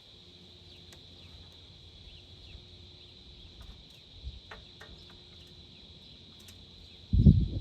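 Crickets trilling steadily, with a few faint clicks, and a loud low thump near the end.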